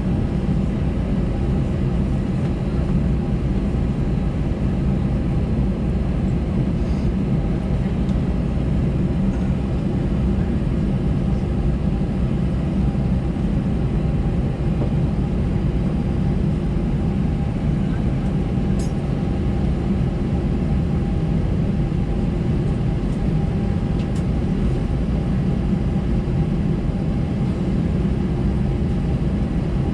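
Steady low rumble of an Airbus A320-214's CFM56 jet engines at ground idle, heard inside the passenger cabin, with a faint steady whine above it.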